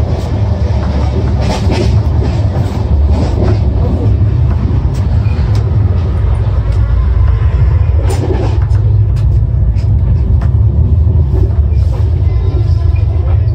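Running noise of the Rajdhani Express heard from inside a moving passenger coach: a steady, heavy low rumble with scattered clicks and rattles.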